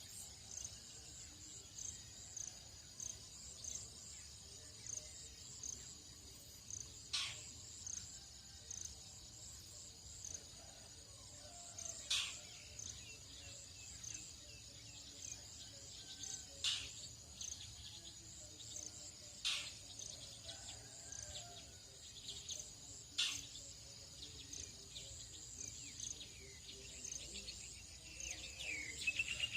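Tropical dawn chorus: insects keep up a steady high-pitched pulsing chirr, cut every few seconds by a short sharp call. Near the end a bird's warbling call rises over it.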